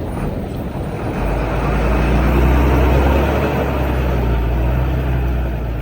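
Heavy construction machine's diesel engine running under load, growing louder about a second in and holding there.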